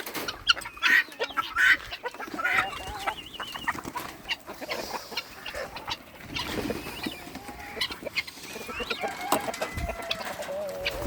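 A flock of chickens clucking and calling, many short overlapping calls with some drawn-out wavering notes.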